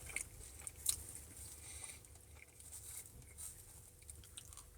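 Faint chewing and wet mouth clicks close to the microphone, with a sharper click about a second in, over a low steady rumble.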